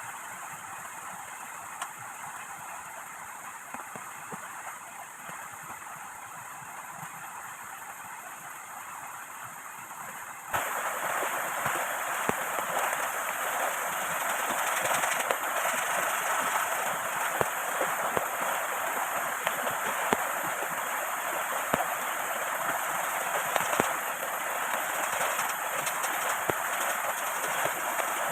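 Steady rush of heavy rain and flowing river water, without a break. About ten seconds in it steps up suddenly to a louder, fuller rush.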